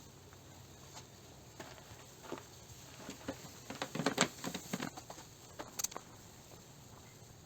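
Small clicks, taps and crackles of hand work, scattered at first and thickest in a quick cluster about four seconds in.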